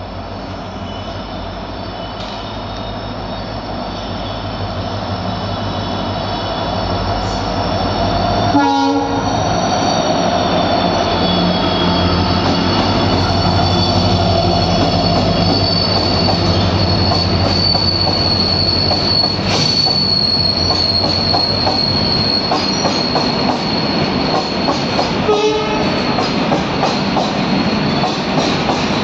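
Indian Railways diesel locomotive approaching and passing with a low engine drone that grows steadily louder, under a high, steady squeal from the wheels. There is a short horn blast about nine seconds in. Covered freight wagons then roll by with a quick, rhythmic clatter of wheels over the rail joints.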